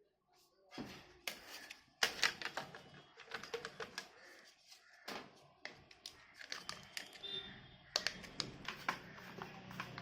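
Irregular small clicks and knocks of the opened plastic mosquito bat and its parts being handled, with a low steady hum starting near the end.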